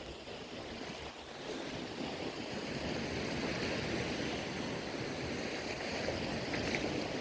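Sea waves washing steadily onto the shore, an even rush of surf.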